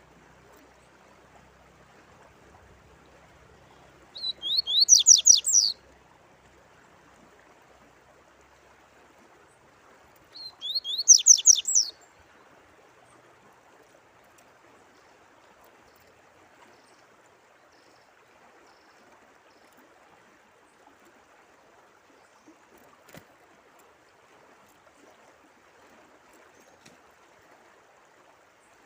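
A songbird singing two short phrases of rapid, falling high notes, about six seconds apart, over a steady background of running water.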